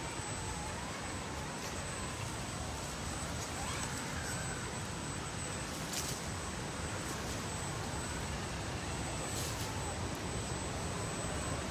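Electric motor and gear drive of an RC scale crawler whining as it drives, the whine rising and falling in pitch with the throttle, over a steady outdoor rush of noise with a few small clicks.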